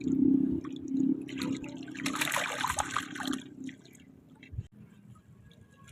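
Water splashing and running off in a burst, then dying down to quiet, with one soft knock near the end.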